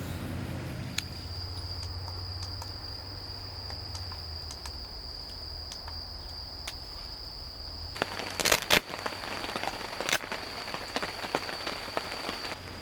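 A cricket trilling in one steady high note that starts about a second in, over scattered sharp clicks and crackles. A few louder clicks come close together about eight and a half seconds in.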